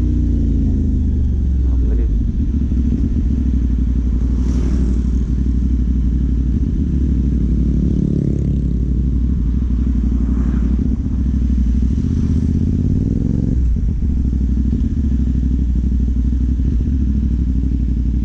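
CFMOTO 450 parallel-twin engine running through a Yoshimura AT2 replica slip-on exhaust while riding. The revs fall at first, climb about eight seconds in, then climb again and drop sharply at a gear change about two thirds of the way through.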